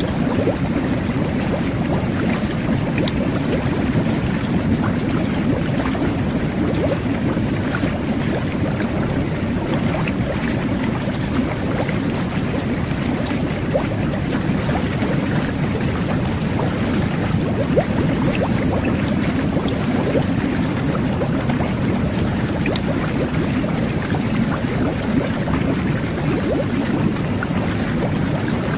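Jet bath (whirlpool tub) running: water jets churning and bubbling in a steady low rush, with scattered small pops of bubbles.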